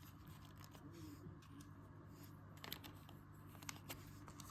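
Faint, scattered clicks of small plastic LEGO bricks and panels being handled and pressed together, a few sharper ones in the second half, over a low steady hum.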